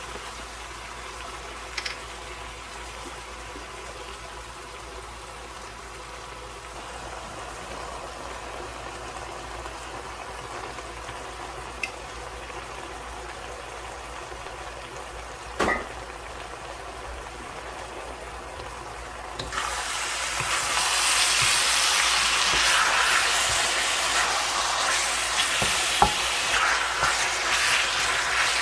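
Sliced chicken frying in a wok as it is stirred with a wooden spatula, with a few light knocks. About twenty seconds in the sizzle suddenly gets much louder and stays loud.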